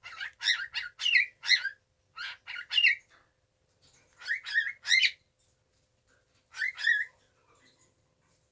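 A baby cockatiel chirping: quick, high calls with short rising slides, in four bursts separated by brief pauses.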